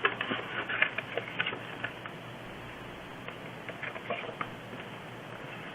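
A sheet of origami paper being folded and creased by hand: quick crinkling and crackling rustles, densest in the first two seconds, then a few faint rustles about four seconds in.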